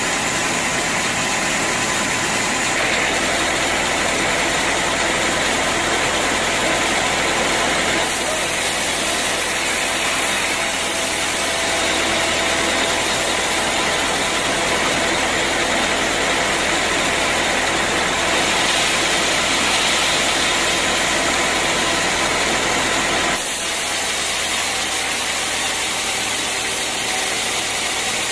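Sawmill machinery running steadily: a constant engine-like hum under a wide haze of mechanical noise. The sound changes abruptly about 8 seconds in and again about 23 seconds in, a little quieter after the second change.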